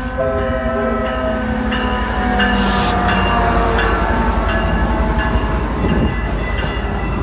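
Amtrak train passing with its locomotive's multi-tone air horn sounding a chord just after the start, the tones then sliding down in pitch as it goes by, over the steady rumble and clatter of the wheels. A short hiss about two and a half seconds in.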